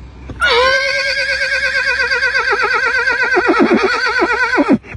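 A long horse-like whinny: a high cry that wavers rapidly up and down in pitch for about four seconds, then cuts off, with a short sliding squeal right at the end.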